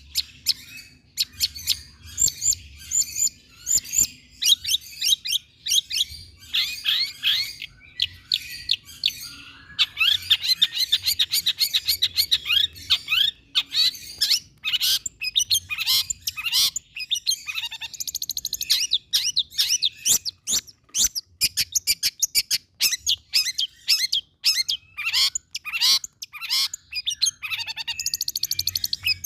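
Long-tailed shrike (cendet) singing a long, varied song of quick chirps, whistles and fast repeated trilled notes, with hardly a pause.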